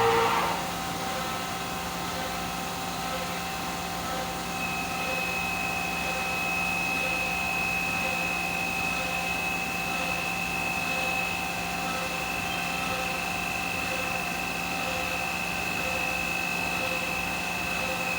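5-axis CNC machine running: a steady mechanical hum with a high whine that comes in about four seconds in and holds.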